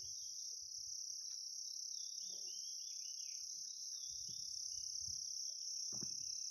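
Steady high-pitched trilling of an insect chorus, unbroken throughout, with a few faint short chirps about two to three seconds in.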